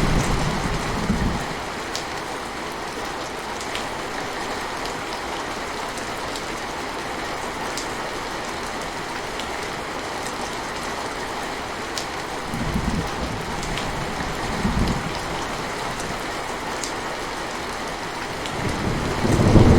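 Steady rain falling on a surface, with scattered sharp drip ticks. Low thunder rumble fades out in the first second or so, two short low rumbles come past the middle, and thunder swells up again near the end.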